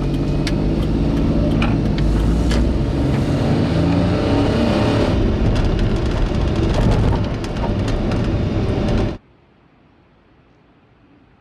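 A car running, with engine and road rumble and scattered clicks and knocks. It stops abruptly about nine seconds in, leaving a faint steady hiss.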